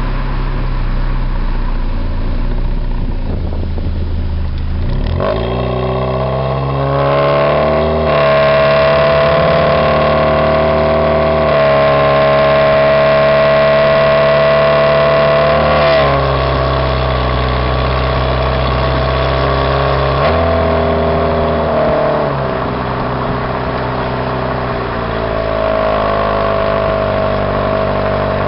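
Exhaust note of a 2002 Pontiac Grand Am's Ecotec four-cylinder, running with no catalytic converter and no resonator, heard right at the tailpipe. A low rumble for the first few seconds, then the revs climb about five seconds in, and the pitch steps up and down several times as the engine speed changes.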